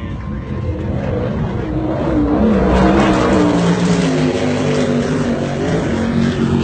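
Offshore racing powerboat engines running hard at speed, getting louder about three seconds in, their pitch then falling slightly.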